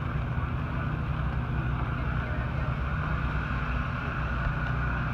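A car engine running steadily at a constant low speed, with no revving.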